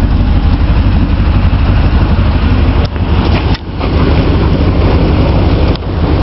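Straight-piped 5.7 L Vortec V8 of a 1996 Chevy 1500 running loud with no mufflers, a deep steady pulse from the open exhaust. The level drops briefly a few times, most sharply about three and a half seconds in.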